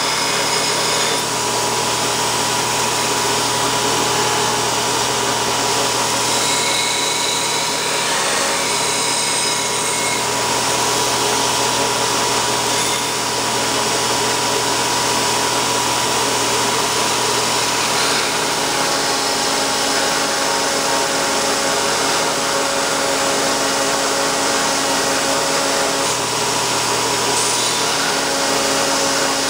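Homemade belt grinder with a 1.5-inch belt running at about 6800 surface feet per minute, grinding a workpiece: a loud, steady rushing hiss with faint steady whines in it.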